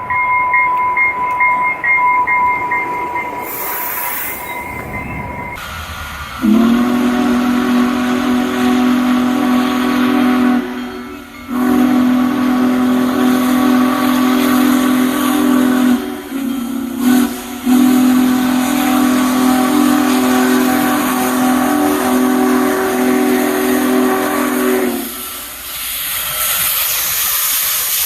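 A grade-crossing bell rings at first. Then a freight locomotive's air horn blows the long, long, short, long crossing signal, and the train rolls past with a steady rush of wheel and rail noise near the end.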